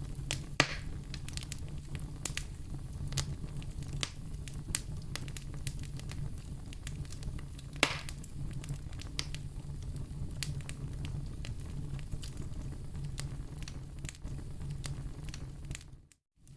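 Wood fire crackling steadily with many small pops and two louder snaps, one near the start and one about halfway. The sound cuts out briefly just before the end.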